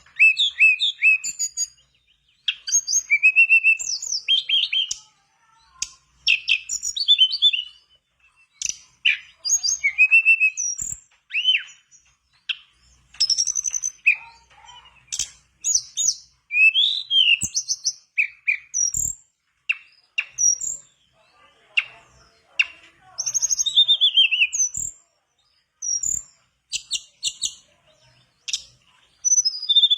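Tledekan bakau singing a lively, varied song of quick chirps and short whistled slurs, delivered in bursts of a second or two with brief pauses between them.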